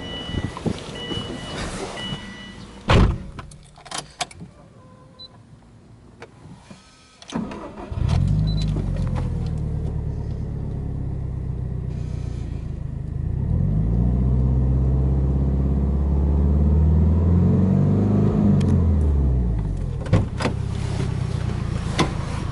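A repeating two-tone warning chime and a thump, then a Subaru Impreza WRX STi's turbocharged flat-four boxer engine cranks and starts about seven seconds in and settles to a steady idle. Near the middle it is revved up, held at raised revs for several seconds, and drops back to idle.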